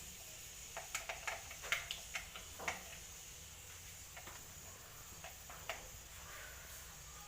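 Whole spices (cardamom, cloves and fenugreek seeds) frying in hot oil in a pan: a faint steady sizzle with sharp crackles and pops, thickest in the first three seconds, then only now and then.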